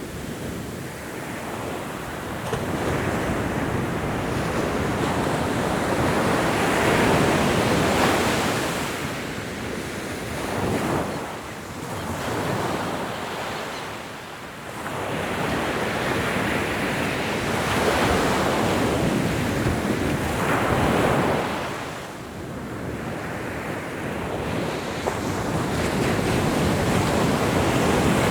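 Ocean waves breaking and washing on shore, the surf swelling and falling back in long surges every few seconds.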